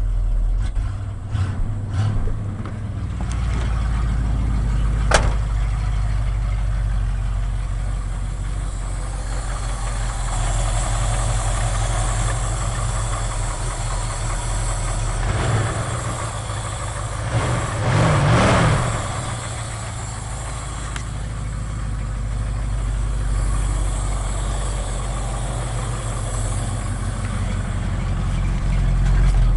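1980 Ford F100's 302 two-barrel V8 running steadily at idle just after a flooded start, with a sharp click about five seconds in and a brief louder swell about eighteen seconds in.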